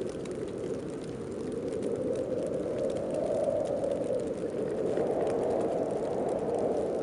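Snowstorm wind blowing, a steady low rushing noise that swells in gusts about halfway through and again near the end.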